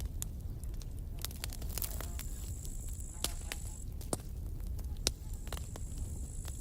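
Wood campfire crackling, with frequent irregular sharp pops over a steady low rumble of burning. A thin high whine sounds twice, for about two seconds each time.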